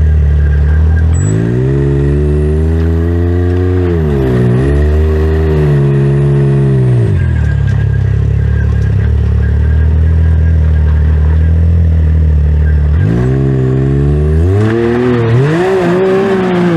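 Can-Am X3 Turbo side-by-side's turbocharged three-cylinder engine, idling and then revving hard twice while it climbs a rocky waterfall. Each time the revs rise and are held for a few seconds, then drop back to idle. The second burst wavers up and down and has a rougher, noisier sound near its end.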